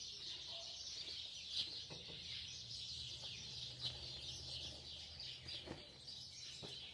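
A chorus of many small birds chirping and singing at once, a dense, continuous twittering.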